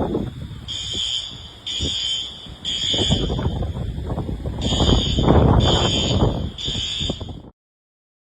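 Fire alarm beeping in the temporal-three evacuation pattern: three high-pitched beeps, a pause, then three more. A rough rushing noise runs underneath, and the sound cuts off abruptly near the end.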